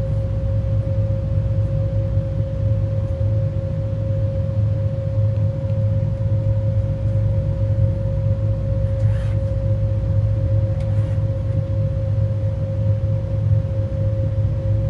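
Cabin noise inside a moving passenger train: a steady low rumble of the train running, with one constant mid-pitched hum held unchanged throughout.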